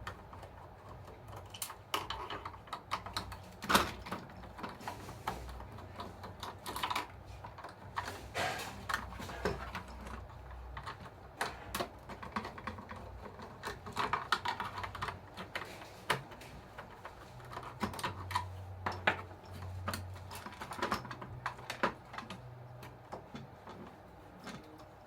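Irregular light clicks and taps of small parts and tools being handled while an RC toy bulldozer is being worked on.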